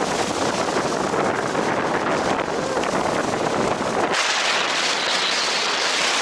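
Strong wind buffeting the microphone of an action camera. About four seconds in, the sound changes to a brighter, higher hiss.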